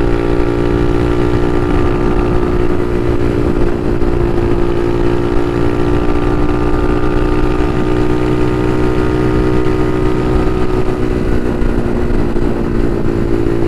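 Bashan Motomax 250 supermoto engine running steadily, heard from on the bike. The pitch holds nearly level, dips slightly and then rises again near the end.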